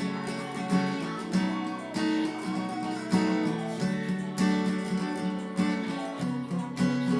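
Acoustic guitar strummed in a steady rhythm, chords ringing with repeated sharp strokes.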